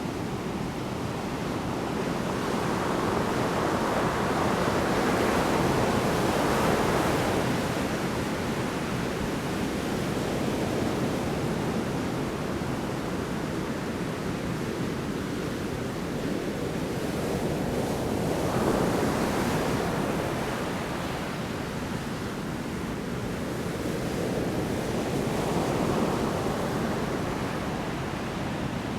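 Large storm waves breaking on a shore: continuous surf that swells louder and fades back about three times as waves crash in.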